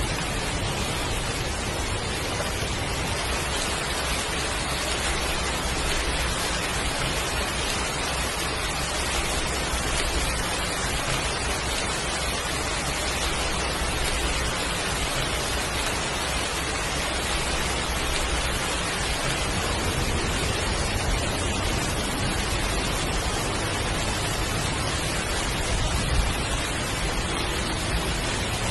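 Heavy rain pouring steadily, a dense even hiss with a low rumble underneath that swells and eases.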